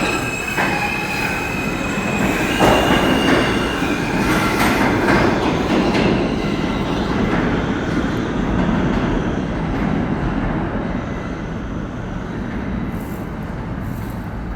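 R160 subway train running past on the track: steel wheels squeal in high steady tones for the first few seconds, with clacks over the rail joints. The running noise then eases off toward the end.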